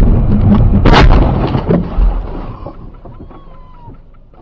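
Car collision: a loud crash about a second in, amid heavy rumbling noise that fades over the next few seconds.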